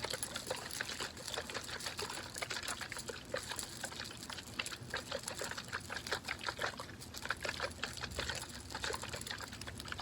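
Close-miked wet crackling and squishing with fast, irregular clicks, from hands working water and lotion into hair.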